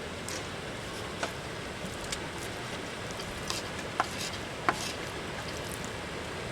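Steady rush of a flowing river, with a few light, sharp clicks scattered through it.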